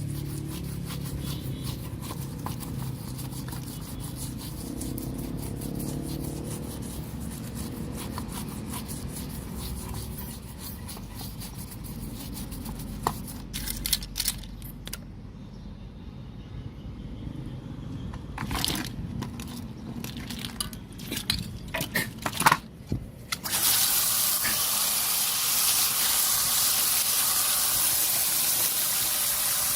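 Radio's speaker giving scratchy crackles and clicks, then about three quarters in a steady static hiss.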